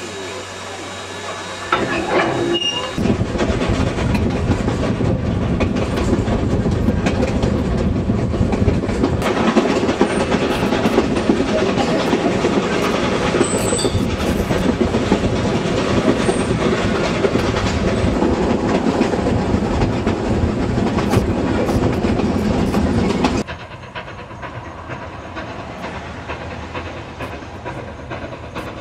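A steam train on the move, heard from aboard: a loud, even rattle of carriage wheels clattering over the rails. It follows a couple of seconds of steam hissing from a standing steam locomotive. Near the end it drops suddenly to a quieter, more distant sound of the train running.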